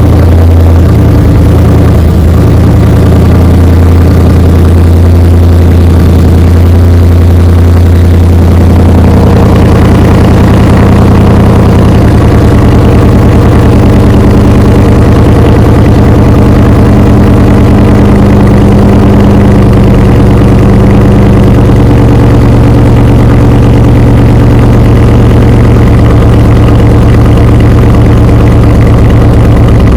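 Dodge Charger Scat Pack's 6.4-litre HEMI V8 on its stock exhaust, idling loud and steady just after a cold start. The note changes about nine seconds in, then holds steady again.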